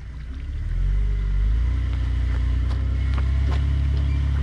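Off-road vehicle engine running, picking up about a second in and then holding a steady low drone under load as it climbs a rocky waterfall, with a few sharp clicks over it.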